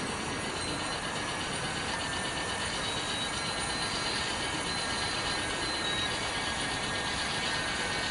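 Model garden-railway train running along the track: a steady rattle of wheels and mechanism.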